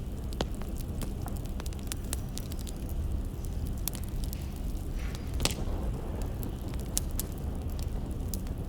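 Firewood burning, crackling with irregular sharp pops over a steady low rumble; one louder pop comes about five and a half seconds in.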